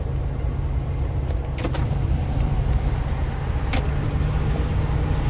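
Steady low rumble of a Mercury Grand Marquis heard from inside the cabin while it is driven, with two short clicks partway through.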